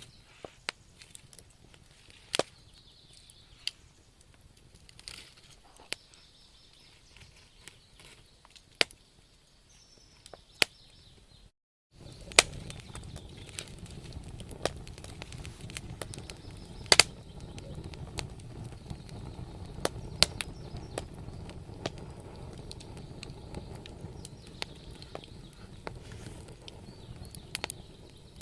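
Wood fire in a fireplace crackling, with irregular sharp pops and snaps. About twelve seconds in the sound cuts out for a moment, then comes back with a steady low rush of flames under the pops.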